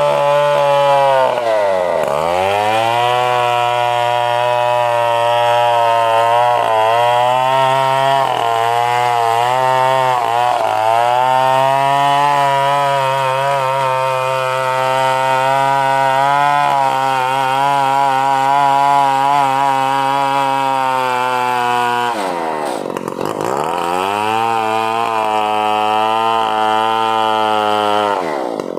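Stihl 070 chainsaw engine, a single-cylinder two-stroke, running at high steady revs. Its pitch drops sharply and climbs back about two seconds in and again about twenty-two seconds in, with smaller wavers in between.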